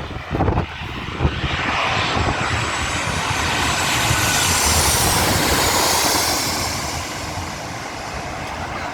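Airplane flying overhead on its landing approach. The engine noise swells to a peak midway, then fades, and a high whine falls in pitch as it passes.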